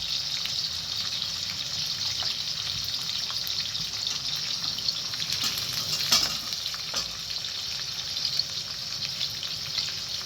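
Steady sizzling hiss of food frying, with a few light clicks and taps now and then.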